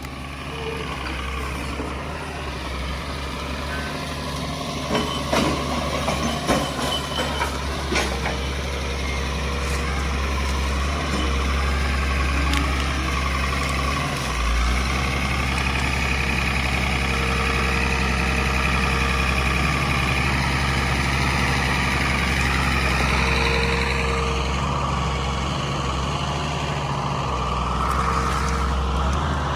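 Heavy earthmoving machine's engine running steadily at the site clearing, with a run of sharp knocks and clatter about five to eight seconds in and a few short beeps later on.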